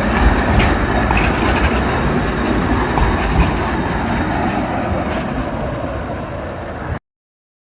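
Narrow-gauge forest railway train running along the track: a steady rumble with scattered clicks of wheels over the rails. It eases off slightly, then cuts off abruptly about seven seconds in.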